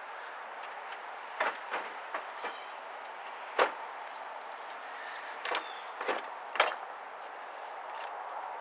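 Car battery being handled and set into the car's battery tray: scattered knocks and clunks, the loudest about three and a half seconds in, over a steady background hiss.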